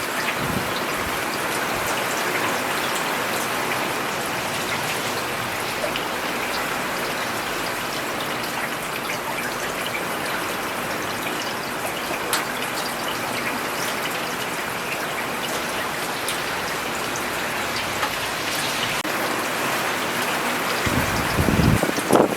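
Steady rain falling on a road, an even hiss with scattered distinct drop patters. A brief low rush swells and fades about a second before the end.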